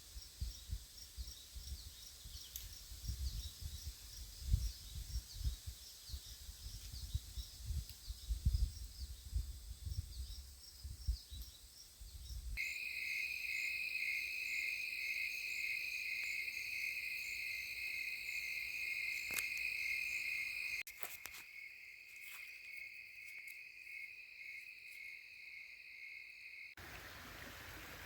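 Insects chirping: first a faint, evenly repeated high chirp over low rumbling wind noise on the microphone, then about twelve seconds in an abrupt switch to a louder, steady pulsing trill.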